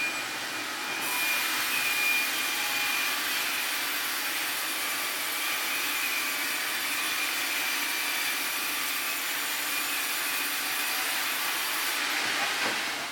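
A saw cutting lengthwise through a Taiwan sweetgum log while it is milled into lumber: a steady, noisy cutting sound with a faint high whine, which stops near the end.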